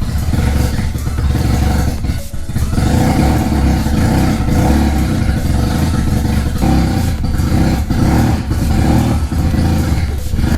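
Mazda RX-7's turbocharged 13B rotary engine running as the car is driven, with the electric exhaust cutout closed so the exhaust stays soft ("suavecito"). The sound drops briefly about two seconds in.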